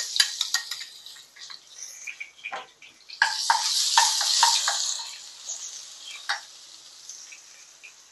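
Ginger-garlic paste sizzling in hot coconut oil in a nonstick wok, stirred with a spatula that clicks and scrapes against the pan. The sizzle flares up loudly about three seconds in as the paste is spread through the oil, then dies down.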